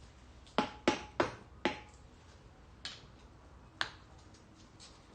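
Sharp metallic knocks and clinks from hand work on an air-cooled engine's cylinder head as it is being freed: four in quick succession, then two more spaced about a second apart, the first few leaving a brief ring.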